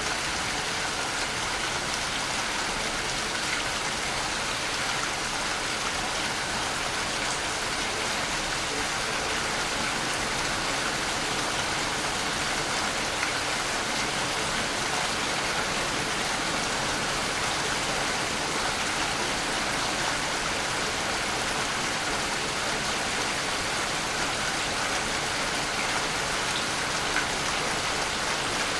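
Waterfall: a steady, unbroken rush and hiss of falling water.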